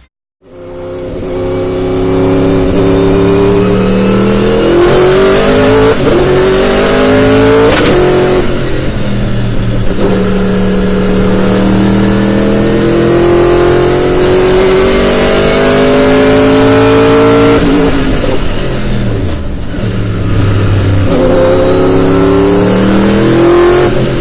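Turbocharged car engine and exhaust accelerating hard through the gears, the pitch climbing steadily and dropping back at each upshift, several times over.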